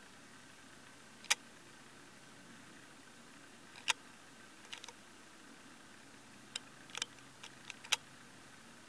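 Faint, steady running noise of a distant freight train of covered grain hopper cars rolling by, broken by scattered sharp clicks at irregular spacing, several close together near the end.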